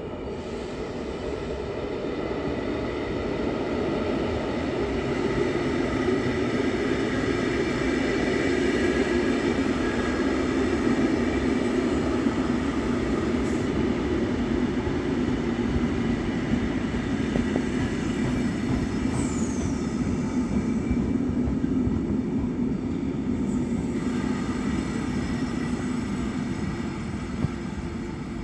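Belgian NMBS electric multiple unit rolling slowly past along the platform: a steady rumble of wheels and running gear with a faint hum from the traction equipment, growing louder over the first few seconds. A brief high squeal glides downward about two-thirds of the way through.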